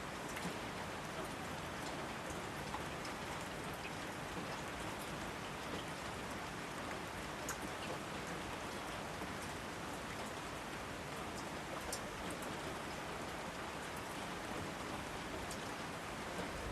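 Steady rain falling: an even hiss with scattered single drops ticking sharply.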